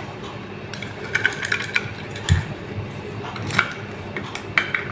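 Light metallic clicks and small clatters of a screwdriver working the screws out of an electronic I/O pack's casing, coming in scattered groups and bunching together near the end.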